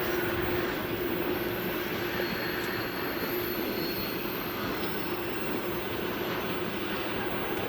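Freight train rolling past: a steady rumbling rail noise with a steady low hum.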